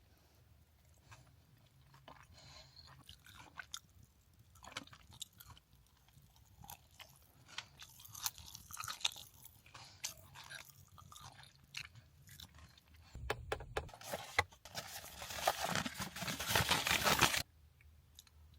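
Close-up crunching and chewing of a chocolate bar with crunchy crispies, with many small crisp cracks. Near the end a louder, denser stretch of crackling runs for about four seconds, then stops suddenly.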